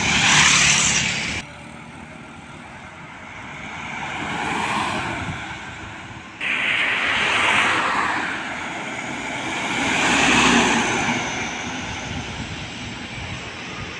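Large trucks passing on a road, each engine and tyre noise swelling and fading away. The sound changes abruptly about a second and a half in and again about six and a half seconds in.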